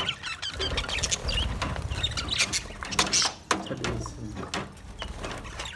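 Budgerigars chirping, short high chirps mixed with many sharp clicks over a low rumble.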